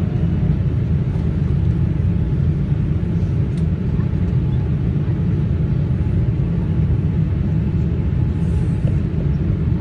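Steady low rumble of a Boeing 787 Dreamliner in flight, heard from inside the cabin: engine and airflow noise holding an even level.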